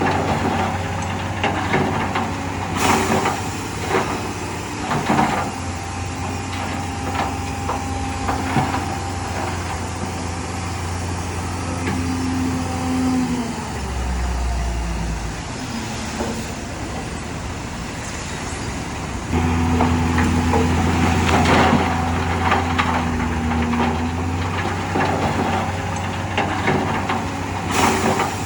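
Diesel engine of heavy earthmoving machinery working under load, with frequent metallic clanks and knocks. The engine eases and gives a deep low rumble about halfway, then grows louder again about two-thirds of the way through.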